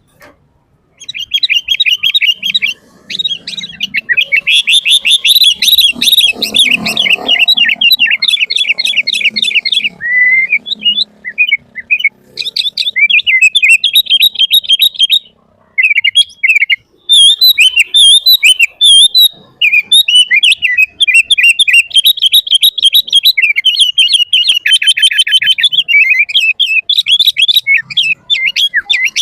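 Sooty-headed bulbul singing loudly and nonstop, a fast run of chattering chirps and whistled notes. There is a brief pause about halfway through.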